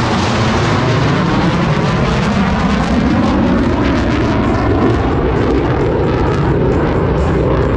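P-40 Warhawk's piston engine running loud as the fighter flies past, the sound slowly shifting and sweeping as it goes by.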